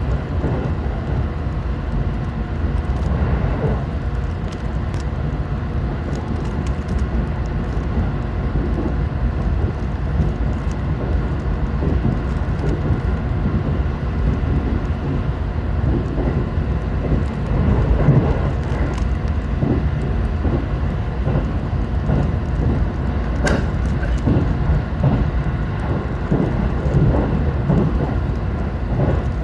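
Steady low rumble of a JR Central 313 series electric train running, heard inside the carriage, with faint scattered clicks of a Rubik's cube being turned by hand.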